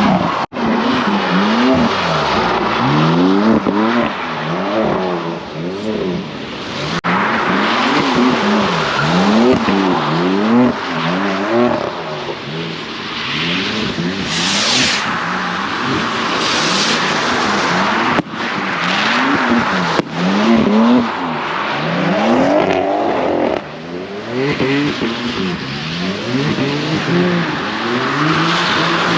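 Car engines revved hard again and again, the pitch climbing and dropping roughly once a second, with bursts of tyre squeal partway through. The sound breaks off abruptly a few times where clips are joined.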